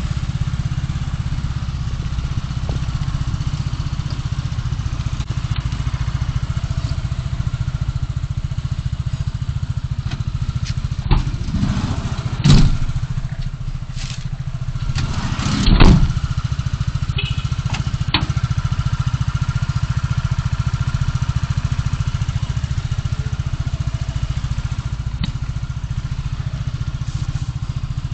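Steady low rumble of a car driving on a city road, picked up by a dashcam inside the car. A few short thumps come around the middle, the loudest a little past halfway.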